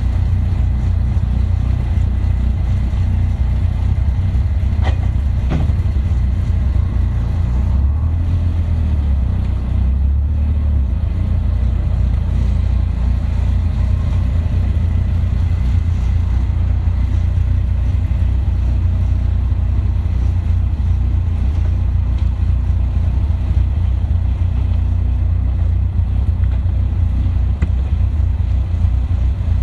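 Caterham sports car's engine idling steadily, a constant low rumble.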